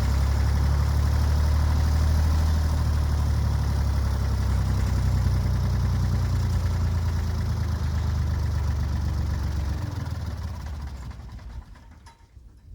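Backhoe engine running steadily with a deep, low note, dying away about ten seconds in.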